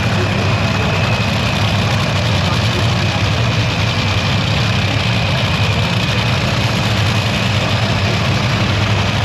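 Large engine idling steadily, loud and unbroken.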